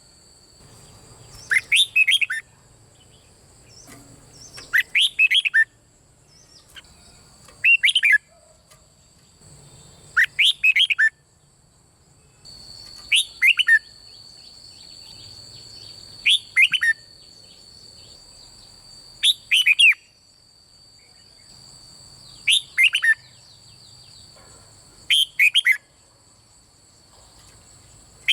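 Red-whiskered bulbul singing: short phrases of a few quick whistled notes, each falling in pitch, repeated about every three seconds, nine times in all.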